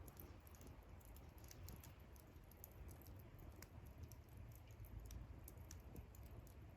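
Wood campfire crackling faintly: irregular small pops and ticks over a low rumble.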